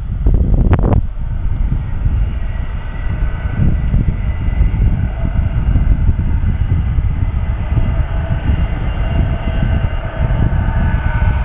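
Boeing 767's GE CF6-80C2 turbofans whining at low taxi power, heard as several faint steady high tones. A loud low wind rumble on the microphone is under them and is loudest in the first second.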